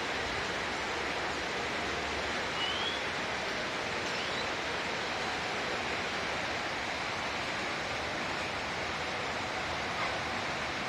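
Steady hiss of heavy rain falling, with a couple of faint short rising chirps a few seconds in.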